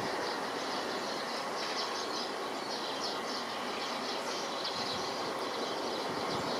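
Steady distant rumble of an FDA Embraer regional jet's engines on approach, with rapid high chirping over it.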